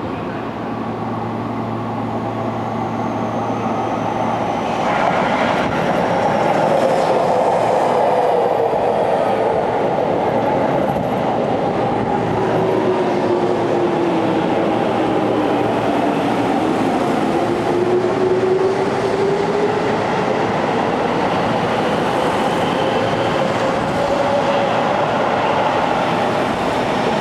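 Seibu 30000-series electric train starting to move and running through the station. A steady low hum gives way at about five seconds to the whine of the VVVF inverter traction motors, whose pitch sinks slowly and then climbs again. Wheels rumble and clack over the rail joints as it picks up speed.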